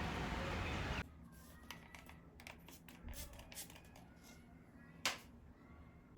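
A steady noise cuts off abruptly about a second in. After it come scattered light clicks and taps in a small room, with one sharper click about five seconds in.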